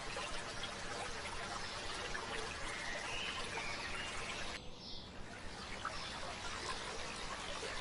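A stream babbling steadily, with small birds chirping now and then over it. About halfway through, the water sound briefly thins out, then returns.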